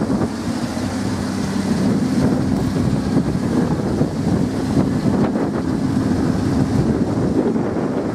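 Lamborghini Huracán's V10 engine running at a steady speed between revs, with wind buffeting the microphone.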